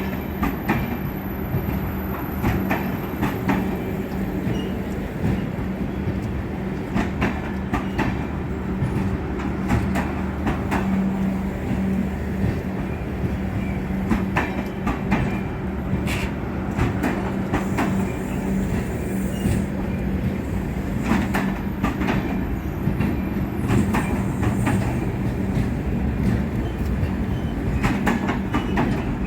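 Indian Railways express passenger train running, its coach wheels clicking irregularly over rail joints over a continuous rumble and a steady low hum.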